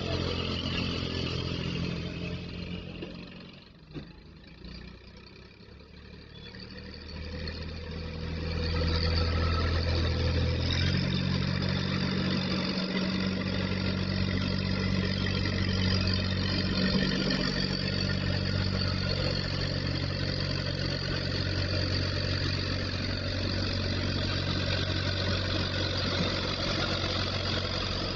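Truck engine running steadily. It drops away briefly a few seconds in, then comes back louder and holds.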